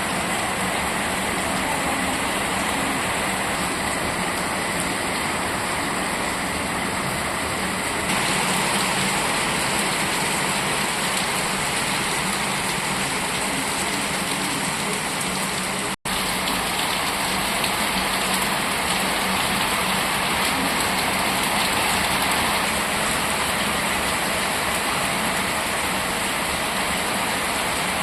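Steady rain falling, an even hiss, which cuts out for an instant about halfway through.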